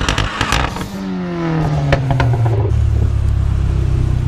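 Car engine's revs falling away over a second or two, then settling into a steady low idle. A few sharp clicks come in the first couple of seconds.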